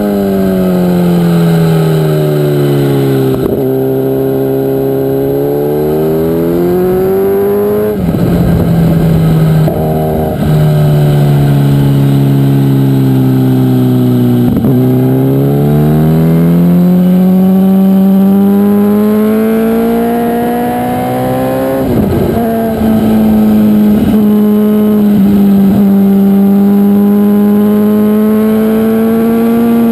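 MV Agusta Brutale motorcycle engine at track speed, heard from an onboard camera: the engine note drops as the bike slows into corners and climbs again as it accelerates out, twice over. There are short breaks in the note at gear changes about 8 and 22 seconds in, and it ends holding a steady high note down a straight.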